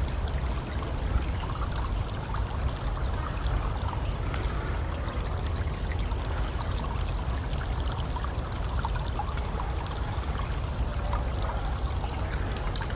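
Steady running water, a stream or trickle, with no break or change.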